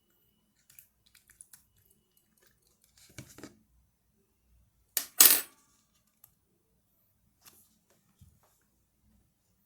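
Scattered small sharp clicks and taps from handling slime and its containers, with a louder double clatter about five seconds in that is the loudest sound.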